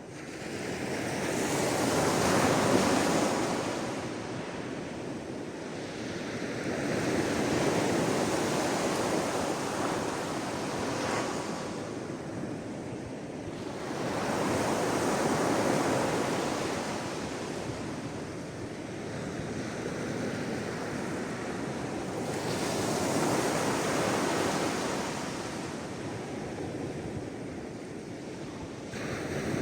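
Sea waves breaking and washing in, a rushing wash that swells and falls away every six to eight seconds, loudest near the start.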